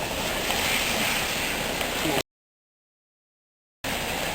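Floodwater rushing over a dam, a steady loud rush. It cuts off abruptly about two seconds in, leaving dead silence for a second and a half, then starts again just as abruptly.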